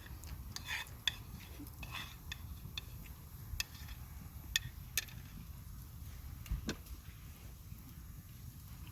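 Cutlery clinking and scraping against a dish or pan, a scattered handful of sharp taps spread over several seconds, over a low steady rumble.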